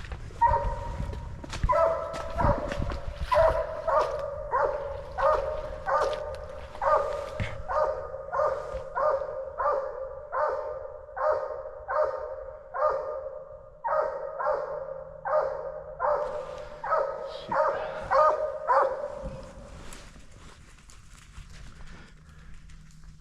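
Coonhounds barking treed, a steady run of short, evenly spaced barks, the sign that they are holding a raccoon up a tree. The barking stops about nineteen seconds in.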